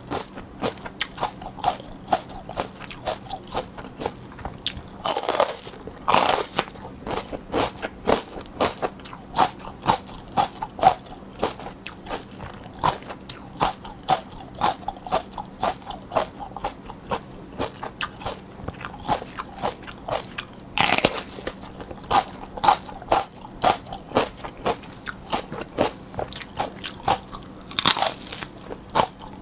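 Crunchy bites into raw mini sweet peppers and close-up chewing of the crisp flesh. Dense crackly chewing runs throughout, with louder bursts of crunching about five seconds in, around twenty-one seconds and near the end as fresh bites are taken.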